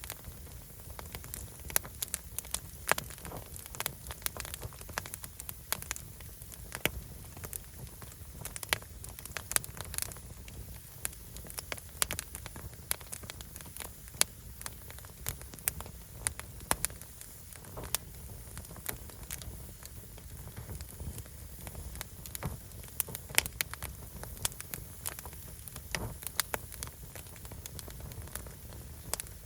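Firewood burning, with constant irregular crackling and sharp pops.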